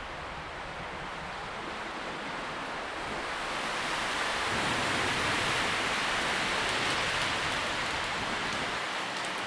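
Wind blowing through tree leaves, a steady rustling hiss that swells to a stronger gust in the middle and eases off a little near the end.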